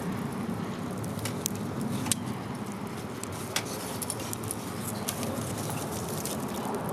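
Wood campfire crackling: irregular sharp pops and snaps, a couple louder than the rest, over a steady low rushing background.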